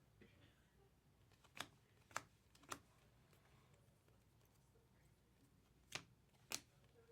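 Sharp clicks of trading cards being handled and flicked through: three quick ones about a second and a half in, then two more near the end.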